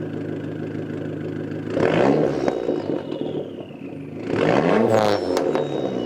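Car engine idling, then revved twice in short blips, each followed by a thin falling whistle as it settles back.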